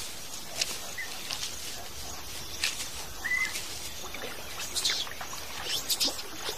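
Outdoor natural ambience with birds calling: scattered short high chirps and two brief whistled notes, over a steady background hiss.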